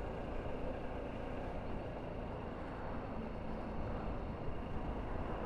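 Motorcycle running steadily while riding, with wind and road noise.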